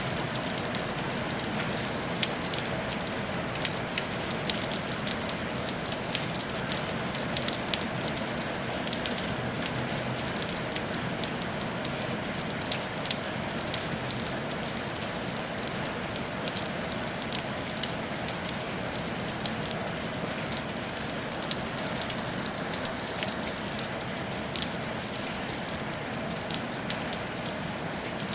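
Steady rain falling on a tile roof, an even patter with many individual drops ticking sharply throughout.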